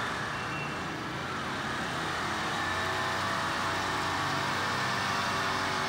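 Road traffic on a rain-wet, waterlogged street: vehicle engines running under a steady hiss of water, with a low engine hum growing steadier a couple of seconds in.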